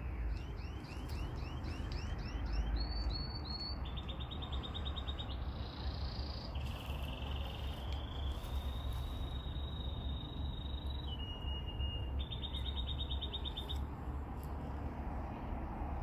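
A songbird singing a varied song made of short phrases one after another: a run of quick repeated notes, rapid trills and a few longer held notes. A steady low rumble runs underneath.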